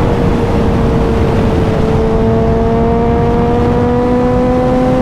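Suzuki motorcycle engine pulling steadily in gear, its revs climbing slowly, with wind rushing over the onboard microphone.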